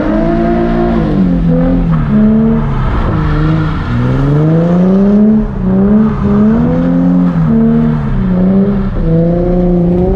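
Nissan 350Z's V6 engine revving up and falling off again and again, its pitch climbing and dropping many times as the throttle is worked during a drift with traction control off.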